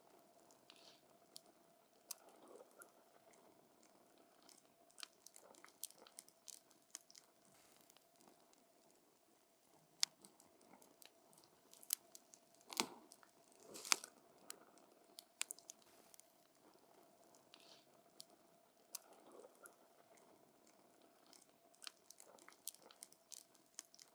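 Burning wood in a campfire crackling, with irregular sharp pops and snaps. A few louder pops come in the middle.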